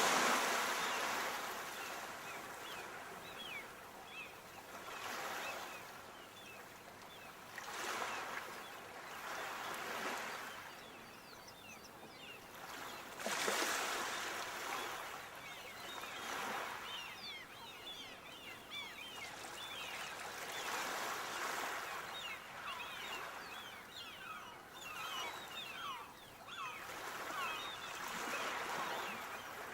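Sea waves breaking and washing up the shore, surging and fading every few seconds.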